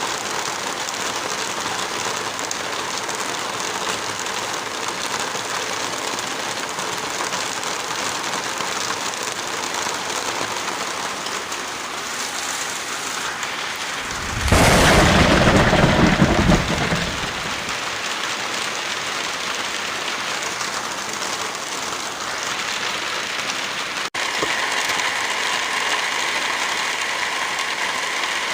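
Heavy rain falling in a steady hiss, with one loud thunderclap about halfway through that rumbles for two or three seconds before dying back into the rain. Near the end there is a momentary break, after which the rain goes on with a slightly different, faintly tonal sound.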